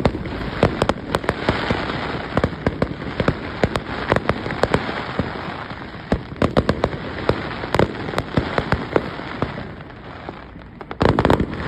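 Fireworks going off: many sharp cracks and pops over a continuous crackling hiss, with a dense cluster of bangs near the end.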